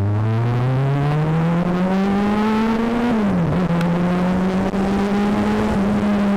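Yamaha XJ6's inline-four engine accelerating, its note rising steadily. About three seconds in it dips sharply at a gear change, then holds a steady high note.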